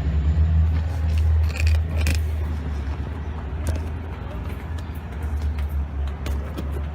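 Light metallic clicks and rattles of a steel clutch cable being handled and fed through the car's chassis, over a steady low rumble.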